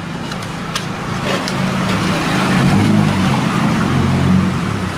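A motor running steadily, growing louder about two seconds in and easing off near the end, with a few light clicks.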